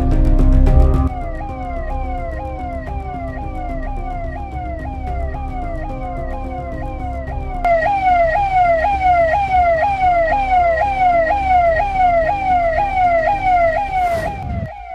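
Ambulance electronic siren sounding continuously in a fast up-and-down sweep, about two cycles a second, growing louder about halfway through. A brief rising whoosh near the end as it cuts off.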